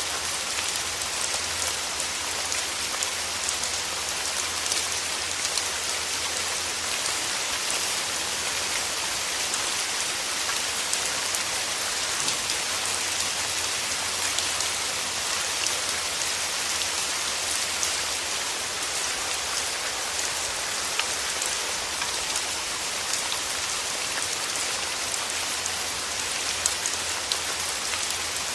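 Steady rain: an even hiss with many small raindrop ticks throughout.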